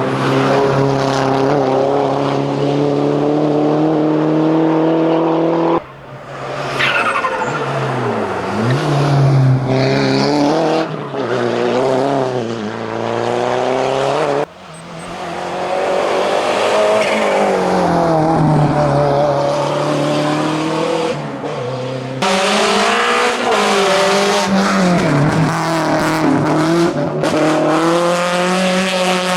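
Hillclimb race cars at full throttle, engines revving up and dropping back through gear changes as they climb and pass by. The sound cuts abruptly three times to a different car.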